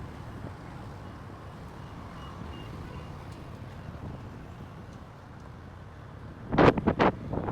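Wind buffeting the microphone over a steady low rumble, with a cluster of loud gusts of buffeting near the end.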